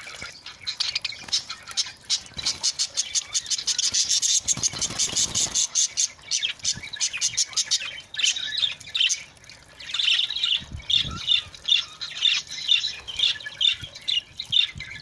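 A group of budgerigars chattering and squawking in fast, high-pitched strings, busiest in the first half, easing off about eight seconds in, then picking up again as a quick, even run of chirps.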